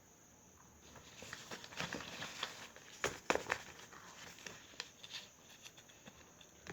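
Faint rustling and scratching noises with a cluster of sharp clicks about three seconds in.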